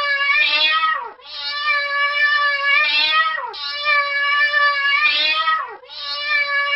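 A cat meowing: long drawn-out meows, one after another about every two seconds, each ending with a falling pitch.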